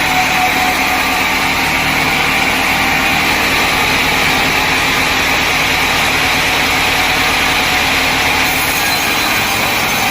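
Sawmill machinery running steadily: a loud, even drone with no breaks.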